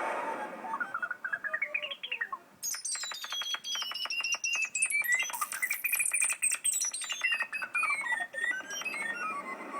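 Synthesized bird tweets from a MIDI bird patch in Simple Synth, played as quick runs of chirping notes that rise and fall in pitch. The runs become dense and rapid about two and a half seconds in, while a wind-noise voice fades out at the start. The birds are driven by EEG brainwave data and take over when beta and gamma (alert) activity is high.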